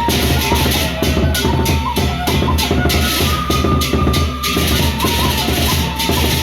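Gendang beleq ensemble playing: large barrel drums beating with crashing cymbals in a quick, steady rhythm. Above them runs a melody of held high notes that step up and down.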